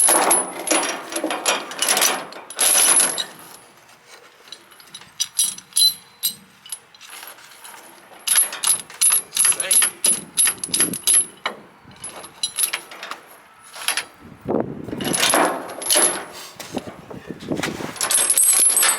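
Steel tie-down chain clinking and rattling in repeated bursts as it is handled and drawn tight with binders.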